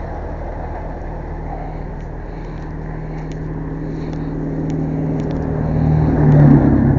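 Motor vehicle engine running steadily with a low, even hum; it grows louder toward the end, peaking about six and a half seconds in, then eases off.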